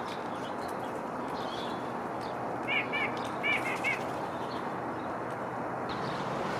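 A songbird giving a quick run of five short chirps about three seconds in, over a steady background hiss.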